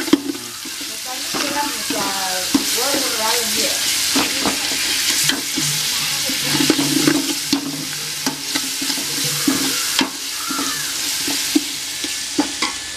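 Ginger-garlic paste frying and sizzling in hot oil in an aluminium pot while a metal ladle stirs it. The ladle scrapes and knocks against the pot many times.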